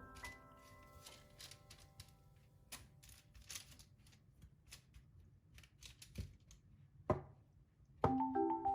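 Faint, irregular clicks and light taps of small objects being handled, with one louder knock about seven seconds in. Piano music dies away at the start and marimba music begins near the end.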